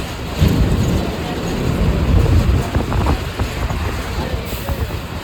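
A vehicle in motion: a heavy low rumble with rattles and knocks over it, louder through the middle.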